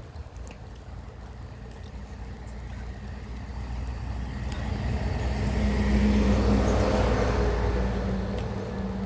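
A motor vehicle driving past, its engine and tyre noise growing louder to a peak about six seconds in, then fading.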